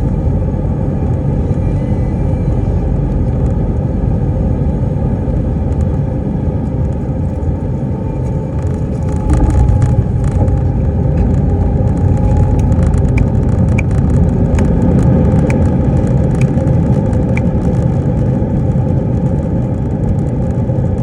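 Airbus A319 cabin noise on final approach: a steady low rumble of engines and airflow. About nine seconds in it gets a little louder and rattly, with many short clicks and knocks.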